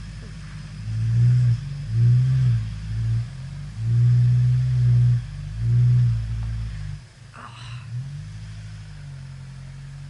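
A vehicle engine idling and revved in about five short throttle blips, then settling back to a steady idle about seven seconds in.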